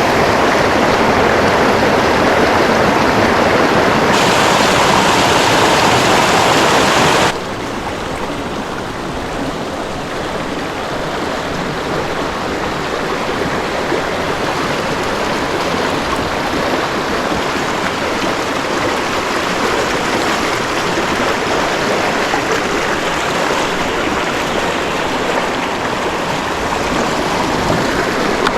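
Creek water rushing, a steady hiss of flowing water. It drops abruptly quieter about seven seconds in, then slowly grows louder again.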